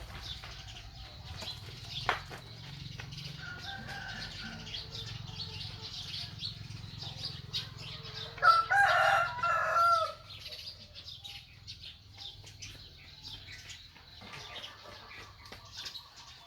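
A rooster crowing once, about halfway through, a loud drawn-out call in a few stepped parts, with light rustling and small clicks around it.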